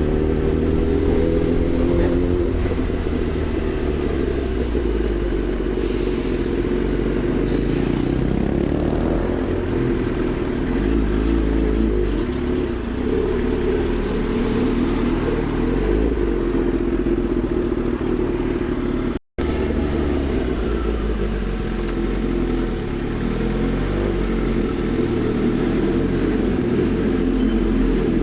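Kawasaki ZX-10R inline-four engine running under way, its note holding fairly steady with small rises and falls in pitch. The sound drops out for a split second a little after halfway.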